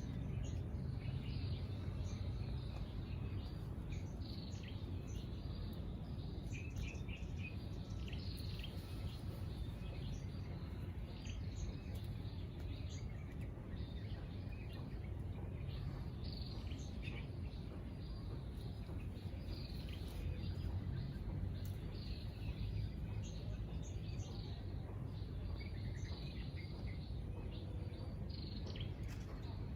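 Outdoor ambience: a steady low rumble with small birds chirping in short, scattered calls throughout.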